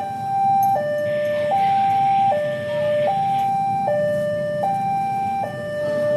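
Railway level-crossing warning alarm sounding a two-note electronic chime that alternates between a lower and a higher note about every three-quarters of a second, the signal that a train is approaching and the crossing is closing. A low rumble of road traffic runs underneath.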